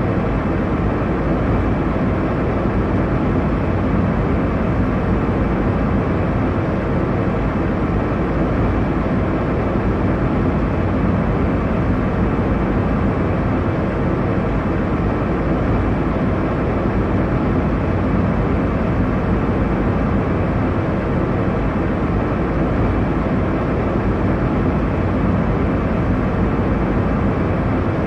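Airliner cabin noise in cruise: a steady, even rumble and rush of engine and airflow noise, deepest in the low end, with no changes.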